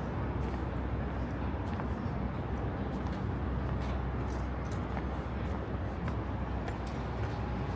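Steady city street ambience: an even low rumble of traffic, with a few faint high-pitched whistles.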